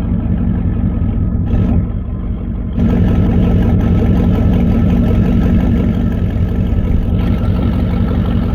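A vehicle engine idling steadily with a low hum. It dips briefly about two seconds in, then comes back a little louder.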